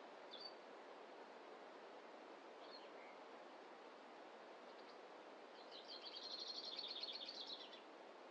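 Forest ambience: a steady soft rushing background with a small bird giving two brief high chirps, then a fast, high trill lasting about two seconds, starting about five and a half seconds in.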